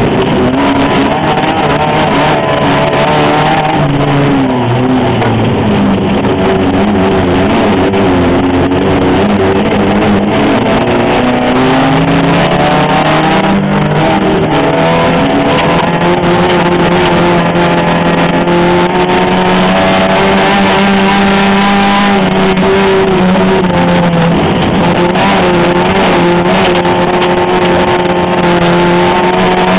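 Race car engine heard from inside the cockpit, running loud at high revs during a dirt-track heat. The pitch falls and climbs repeatedly as the driver lifts and accelerates through corners, then holds high for a long stretch in the middle before dipping again.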